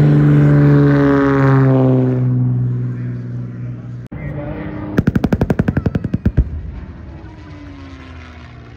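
Propeller aircraft engine passing close, its note falling in pitch as it goes by. After an abrupt cut, a rapid burst of about a dozen sharp pops in a second and a half, then a quieter engine passing with a falling note.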